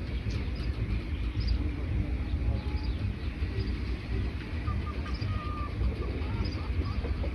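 Forest birds chirping, with short high notes and a few lower calls about five seconds in, over a steady low rumble.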